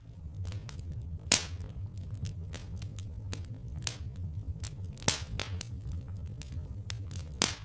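Wood fire crackling with irregular small snaps and three louder pops, over a steady low rumble.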